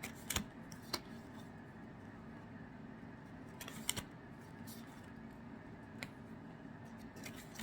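Trading cards being handled and sorted by hand: a few sharp clicks and short papery rustles, the loudest around four seconds in, over a low steady background hum.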